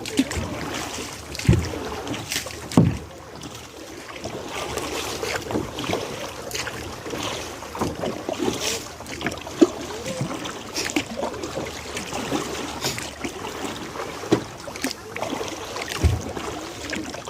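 Kayak paddling: irregular splashes and water swishing from paddle strokes, with a few sharp knocks.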